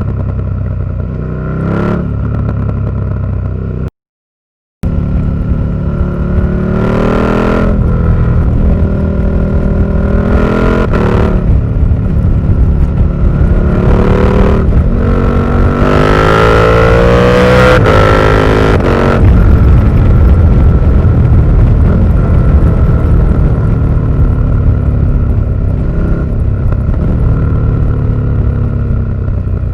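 KTM 1290 Super Duke R's V-twin engine through an Austin Racing V3 200mm exhaust, revved up and let fall back several times, with the longest and highest rev near the middle, then running steadily. The sound drops out completely for about a second, around four seconds in.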